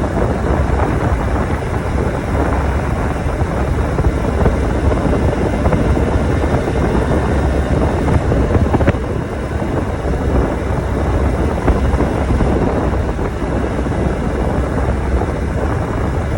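Motorcycle engine running steadily, a dense low rumble with no clear changes in pitch.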